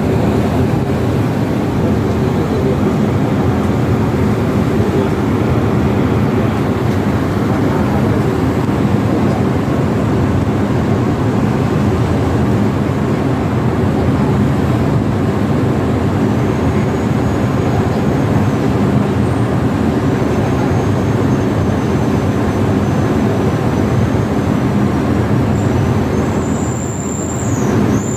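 A large passenger ship's engines droning steadily, a loud, even rumble with a constant low hum, dipping slightly near the end.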